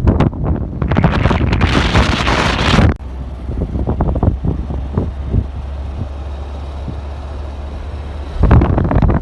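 Wind buffeting the microphone as a loud, gusty rumble. About three seconds in it drops suddenly to a quieter steady low rumble, and the loud buffeting comes back shortly before the end.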